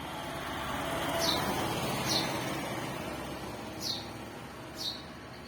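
A small bird calling with four short, high, falling chirps, over a broad rushing background noise that swells about a second in and slowly fades.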